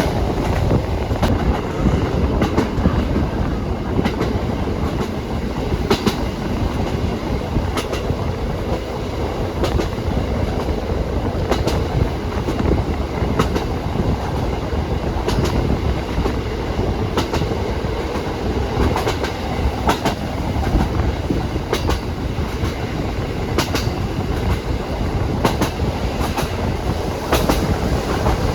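Train running along the track: a steady rumble of wheels on rail with clacks every second or two as the wheels cross rail joints.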